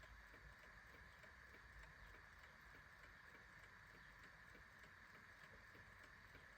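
Faint, steady ticking of a clock: a run of light, evenly spaced ticks over a constant hiss.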